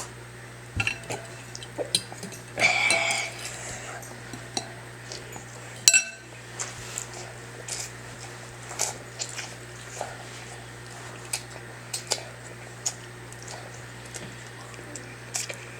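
A child eating noodles from a bowl: scattered light clinks and taps of the dish. There is a short noisy burst about three seconds in and a single sharp knock near six seconds.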